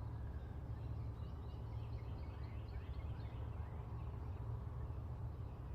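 Faint birds chirping over steady low outdoor background noise.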